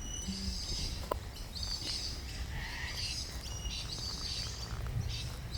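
Several wild birds chirping and twittering in quick, high calls, over a steady low rumble.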